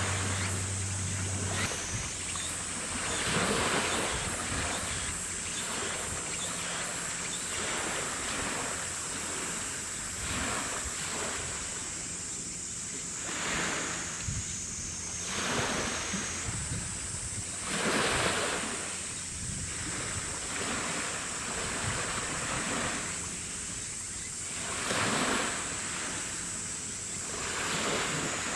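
Wind and choppy harbour water, the noise swelling and easing every few seconds, over a steady high-pitched hiss. A low hum stops about two seconds in.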